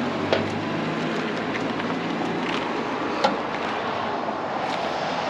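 Chevrolet Camaro idling with a steady low exhaust note through its newly extended exhaust, with two sharp clicks, one near the start and one about three seconds in.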